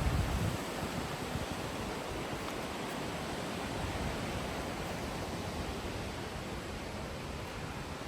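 Steady rush of stream water flowing through a rocky canyon, an even hiss with no break. A low gust of wind buffets the microphone at the very start.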